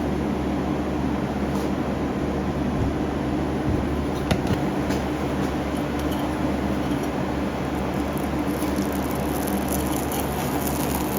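Small metal-melting furnace running, a steady rushing noise with a low hum under it, with a faint click or two as pieces go in about four seconds in.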